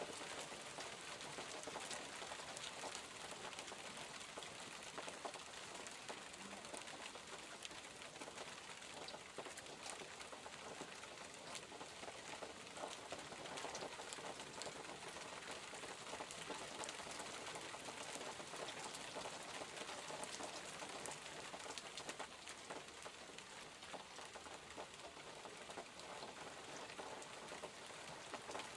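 Steady rainfall: an even wash of rain with many separate drops ticking on surfaces throughout.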